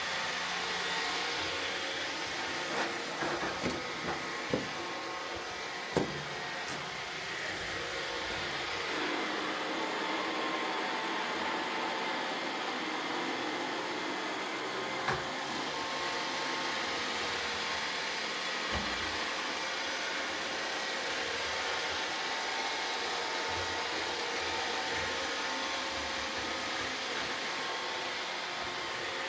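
Roomba robot vacuum cleaning confetti, with a steady whirring hum from its motors and brushes. A few sharp clicks or knocks stand out, a cluster about three to six seconds in and one about halfway.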